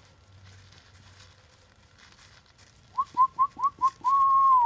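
A person whistling to call the dogs: five quick short chirps, then one long held note that drops in pitch as it ends.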